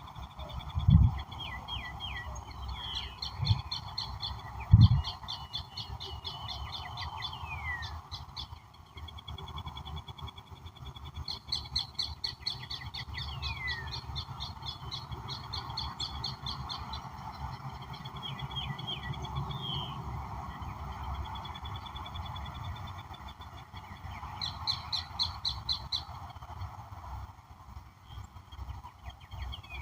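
Several wild birds calling and singing: repeated rapid trilled phrases and short falling whistles, over a steady background hum. Three short low thumps in the first five seconds are the loudest sounds.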